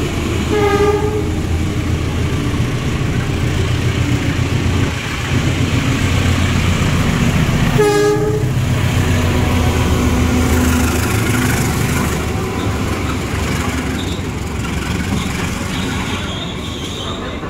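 Trains running through a station, with a steady rumble of wheels on rail. A train horn gives two short blasts, one about a second in and another about seven seconds later. Near the end, passenger coaches roll by close on the near track.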